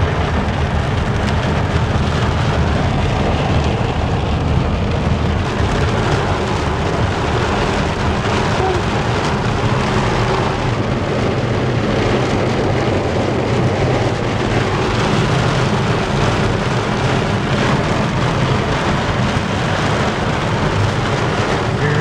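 Heavy rain pelting a moving car's roof and windshield, heard from inside the cabin as a steady, even hiss over the low rumble of the road and engine.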